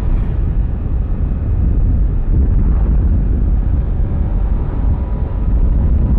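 Yamaha Aerox V3 scooter's 155 cc single-cylinder engine running steadily while riding, under heavy wind rush on the helmet or body microphone.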